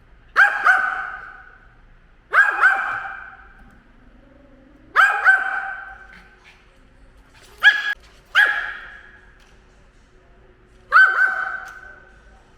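Dog barking at a drone: six loud bursts about two seconds apart, several of them quick double barks, each trailing off in echo.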